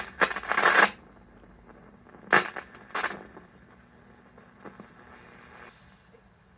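Hallicrafters S-108 shortwave receiver's dirty band switch being turned: sharp clicks and scratchy bursts of static from the speaker as the contacts make and break, in a cluster in the first second and two more a couple of seconds later. A faint steady hum from the set remains afterwards.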